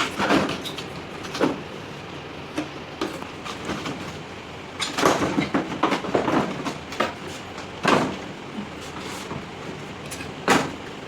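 Irregular knocks and clatter of handling, with a quick cluster about halfway through and single sharp knocks later, over a steady background noise.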